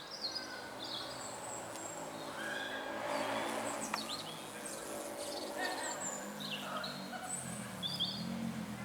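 Several small birds chirping and singing in short, overlapping calls and trills, over a faint low hum.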